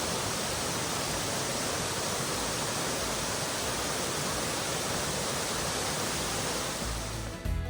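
Soco Falls waterfall rushing steadily, a dense hiss of falling water. Music comes in near the end.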